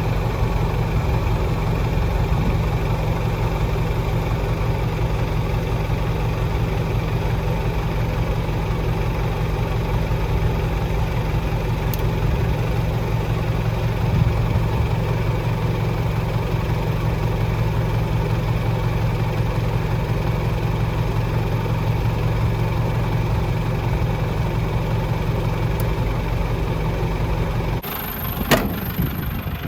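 Nissan ED30 diesel engine of a Nissan Cabover C240 dump truck idling steadily. Its low note stops abruptly near the end, followed by a single knock.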